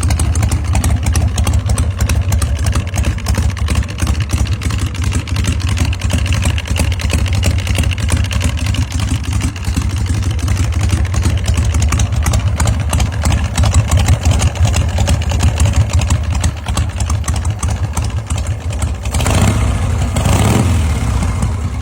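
Shovelhead V-twin engine of a 1984 Harley-Davidson Electra Glide chopper running at idle, loud and steady, with a brief rise and fall in revs near the end.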